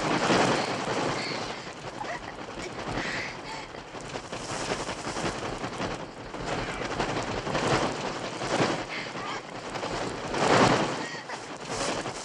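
Film soundtrack of a mass bird attack: a dense din of flapping wings and bird shrieks that swells and fades in waves, loudest near the start and again about ten and a half seconds in.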